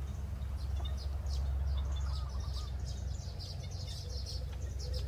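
Small birds chirping, with many quick high chirps and calls throughout, over a steady low rumble.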